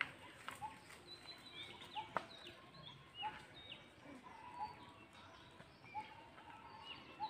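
Birds calling faintly: many short, repeated chirps and whistled notes, with a few sharp clicks among them.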